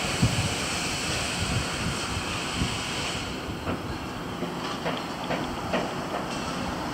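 A vehicle running: a steady rumble with low thumps, and a few short clicks and rattles in the second half.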